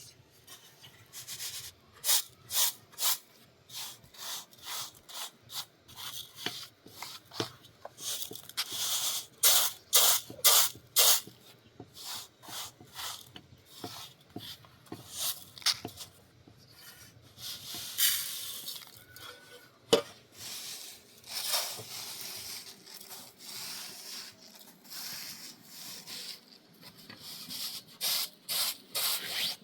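Irregular series of short scraping strokes, some in quick runs, with a longer rasping stretch about two thirds of the way through.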